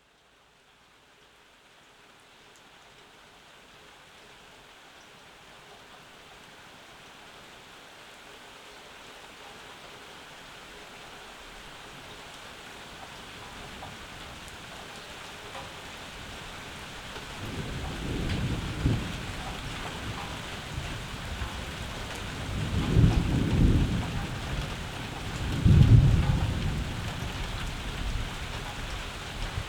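Summer rain falling steadily, fading in and slowly growing louder, with three low rolls of thunder in the second half; the last is the loudest.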